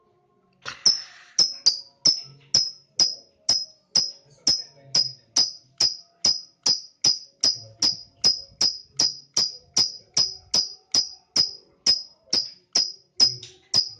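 Lovebird giving a long series of sharp, high chirps, a little over two a second, starting just under a second in. It is a trigger call (pancingan) of the kind played to set young lovebirds off into their 'ngekek' song.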